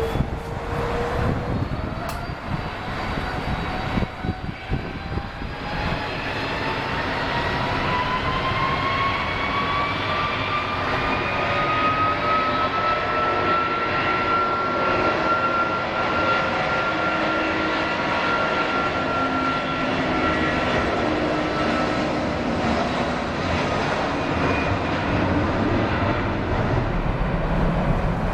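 Airbus A330-243F freighter's Rolls-Royce Trent 700 turbofans spooling up for takeoff: a jet whine rises steadily in pitch through the first half, then holds steady over a growing roar.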